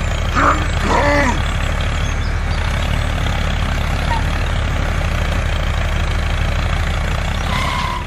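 Tractor engine sound effect running steadily with a low, even hum, laid over a miniature toy tractor.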